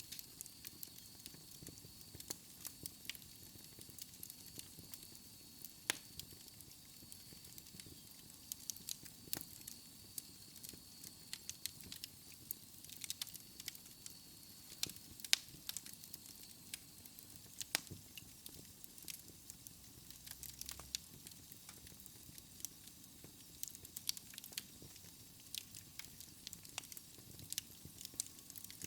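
Wood fire in a fireplace crackling, with irregular sharp pops and snaps over a soft low hiss. A faint thin high tone runs through roughly the first half and then fades out.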